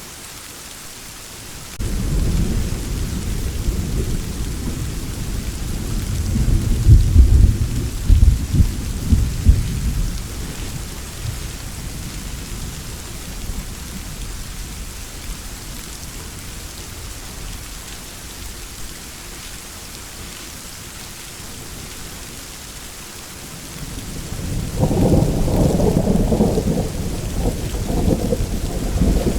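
Thunderstorm: steady rain with two rolls of deep thunder. The first breaks in suddenly about two seconds in, swells and dies away after several seconds; a second rumble rises near the end.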